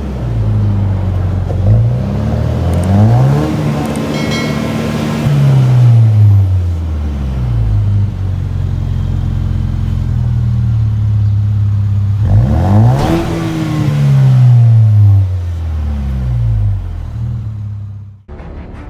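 2019 Ford Ranger's 2.3-litre EcoBoost turbo four-cylinder, heard through a 3-inch cat-back exhaust with a Flowmaster FX stainless straight-through muffler, revved repeatedly. The pitch climbs and then falls back slowly each time, and the sharpest rev comes about twelve seconds in. The engine sound drops away near the end.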